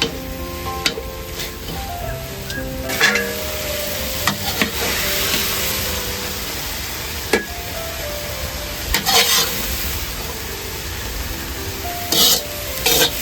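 Food sizzling as it is stir-fried in a pan, with the utensil clicking and scraping against the pan every second or two and the hiss swelling at intervals. Soft background music with a melody plays over it.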